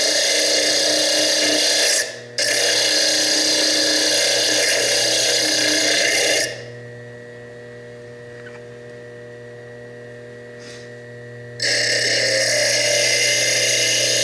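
Small diamond slitting disc on a Foredom bench lathe grinding into fire agate with a loud, steady hiss, lifting off for a moment about two seconds in. From about six seconds in the disc is off the stone for some five seconds and only the lathe's motor is heard spinning freely with a steady whine, before the disc bites into the stone again.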